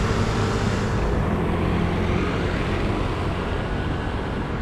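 Road traffic: a passing vehicle's engine and tyre hiss fading away after about a second, over a steady low engine rumble.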